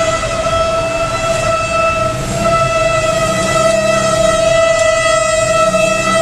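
Train horn held in one long, steady tone over the low rumble of a locomotive engine.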